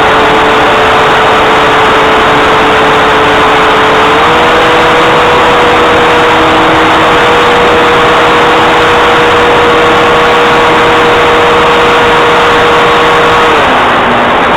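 Cessna 182's piston engine and propeller heard loud and steady inside the cabin, a continuous drone with a humming tone that steps up slightly about four seconds in and drops back near the end.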